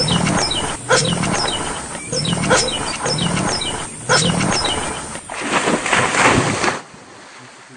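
A crowd of caged birds calling loudly while being fed: many short chirps falling in pitch, several a second, over a harsh, noisy din. The calling drops away about seven seconds in.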